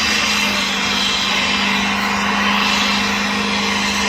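A car engine running at a steady high pitch, with a loud rushing noise over it.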